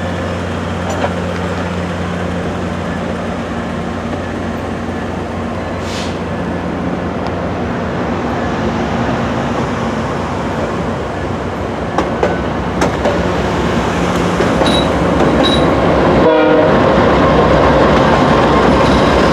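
VIA Rail passenger train pulling out of the station: the diesel locomotive running with a steady low drone over the rumble of the cars, growing louder over the last few seconds.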